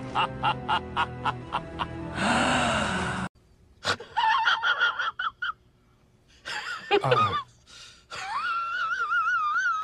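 A run of sound-effect clips. First come rapid sharp clicks, about five a second, over music, then a short hiss. After an abrupt cut there are wavering, whistle-like calls: a quick falling glide, and near the end a long warbling tone.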